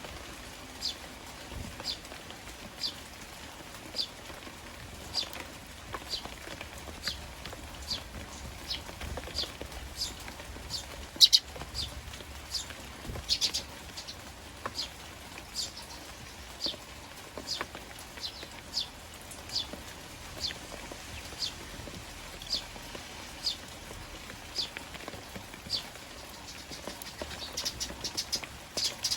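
Eurasian tree sparrows chirping, short high chirps at about one a second, with a quicker run of chirps near the end, over a steady patter of rain.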